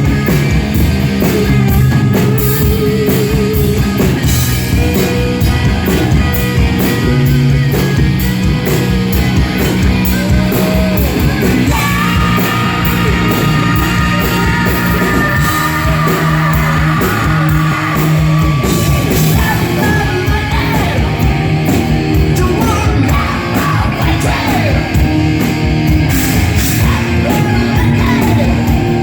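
Live hard rock band playing loud: electric guitars, bass and pounding drums, with a male singer belting and yelling over them.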